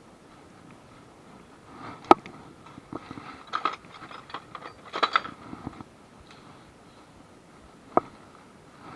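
Scattered sharp knocks and clicks of hand tools and metal parts being handled: one loud knock about two seconds in, quick clusters of clicks around the middle, and another single knock near the end.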